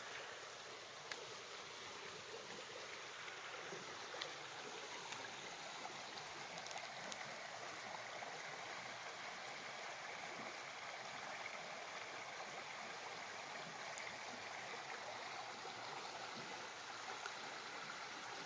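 Steady rushing of running water, like a stream, with a few faint ticks.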